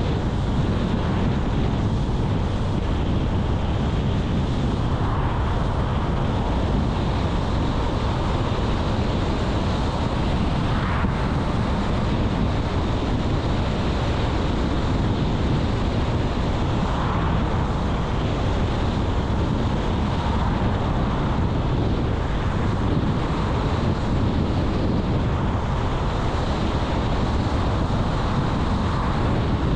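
Steady road and wind noise of a car being driven, an even low rush with a few faint swells now and then.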